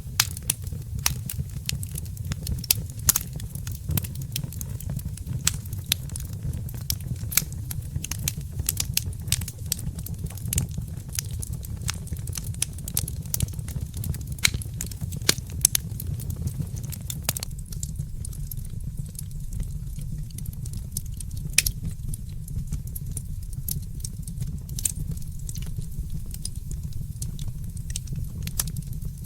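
Wood fire in a fireplace crackling, with many sharp pops and snaps over a low steady rumble; the pops come thick at first and thin out about two-thirds of the way through.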